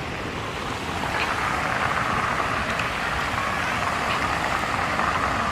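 Steady noise of a river cruise boat under way, its engine rumbling low beneath a hiss of wind and water, growing slightly louder about a second in.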